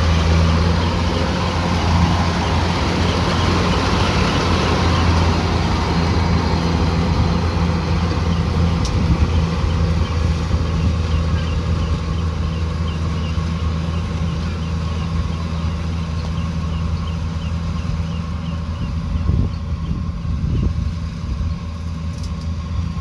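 Kubota DC105X combine harvester's diesel engine and threshing machinery running steadily under load.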